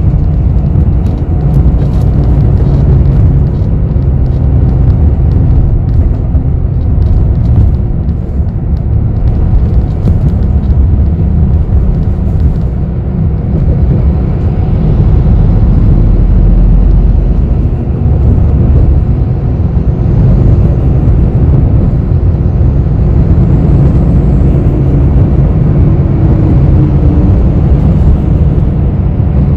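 Inside a moving bus: steady heavy low rumble of the engine and road, with a low hum and faint clicks and rattles scattered through the first half.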